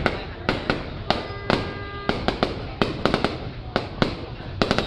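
Fireworks going off: a rapid, irregular string of sharp bangs and cracks, several a second, over a steady rumble.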